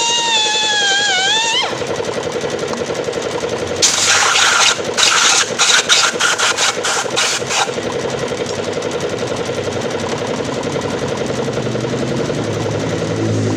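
Pneumatic air grinder: a wavering high whine stops under two seconds in, giving way to a steady mechanical running noise. About four seconds in comes a string of rapid hissy pulses lasting about four seconds, then the steady running returns.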